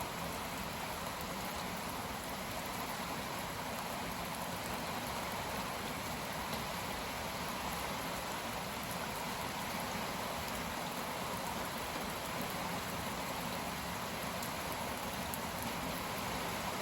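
Heavy, steady rain pouring down with the passage of a cold front, an even hiss of rain on surfaces.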